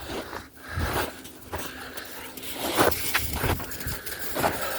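Footsteps through wet snow and slush, irregular soft crunching steps over a steady background hiss.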